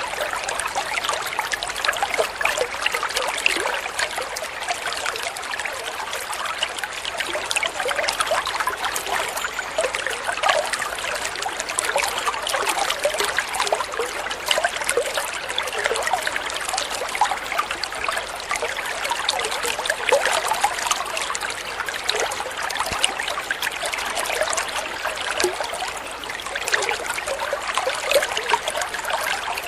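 Water flowing and trickling steadily, with many small splashes and burbles.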